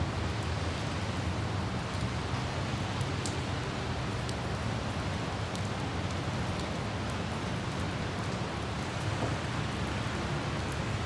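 Light rain with scattered droplet ticks over a steady low rumble of road traffic and wind.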